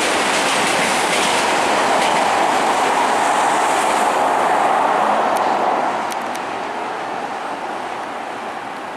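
Red Meitetsu electric commuter train passing close by, a steady wheel-on-rail running noise that dies down from about six seconds in.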